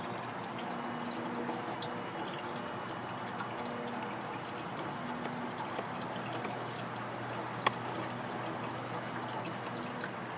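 Honeybees humming around an open top-bar hive: a steady hiss with faint buzzing tones that come and go as bees fly past. One sharp click sounds nearly eight seconds in.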